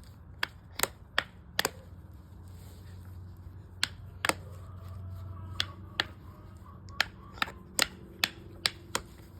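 Stone being knapped into a small bird point: about fifteen sharp clicks, unevenly spaced, as flakes snap off under the chipping tool, over a faint steady hum.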